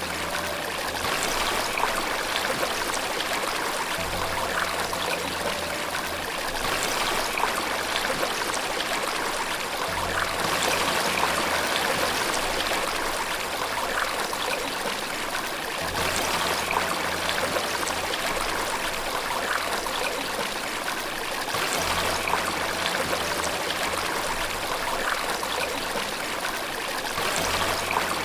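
Steady running water, a continuous splashing flow, under faint low sustained piano notes that change about every six seconds.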